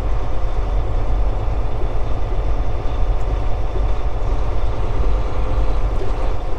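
Semi truck's diesel engine running steadily at low speed, a deep even rumble with no revving.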